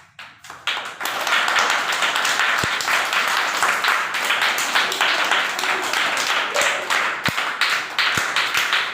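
Applause: many hands clapping together in a dense, continuous round that starts about a second in and keeps going.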